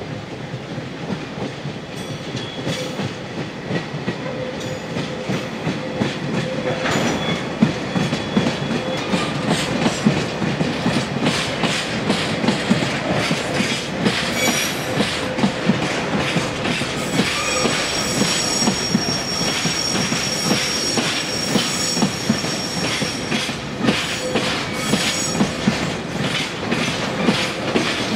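Freight train of Taki 1000 oil tank wagons rolling past, its wheels clicking over rail joints in a steady run of clacks. A high steady wheel squeal rings over it in the second half.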